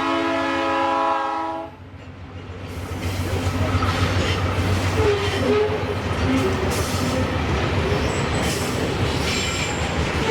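Locomotive air horn sounding a chord of several notes, cutting off suddenly about two seconds in. The train then rolls past with a growing low rumble and wheel-on-rail clatter, with brief high wheel squeals near the end.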